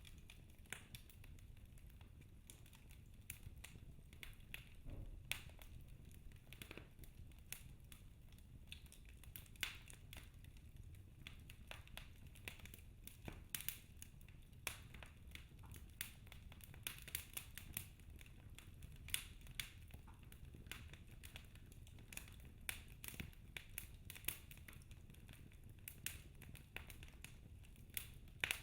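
Wood fire in a fireplace crackling: irregular sharp snaps and pops from burning logs, a few every second, over a faint low rumble.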